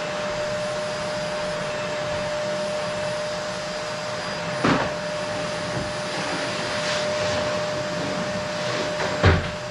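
Qilive vacuum cleaner running steadily: an even rush of air with a steady whine. Two short knocks come about halfway through and near the end.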